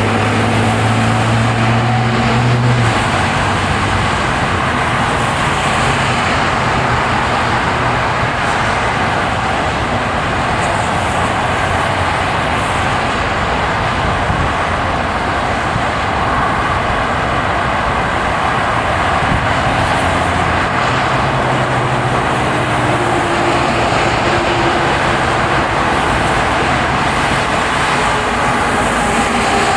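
A car driving on a plowed, snowy road: steady tyre and road noise, with a low engine hum that shows in the first few seconds and again about twenty seconds in.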